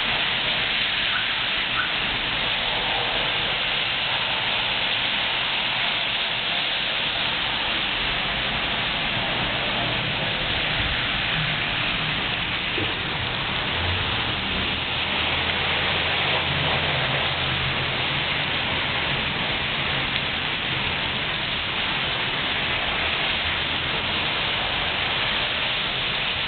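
Steady rain falling, a constant even hiss of drops. A low hum runs underneath through the middle of the stretch.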